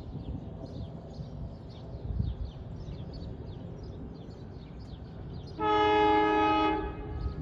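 An NJ Transit Arrow III electric multiple-unit train sounds its horn in one blast of about a second and a half, a little over halfway through, as it approaches the station.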